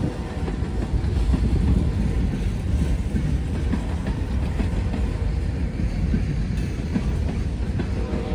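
Norfolk Southern freight train's cars rolling past: a steady, loud, low rumble with the clatter of wheels over rail joints.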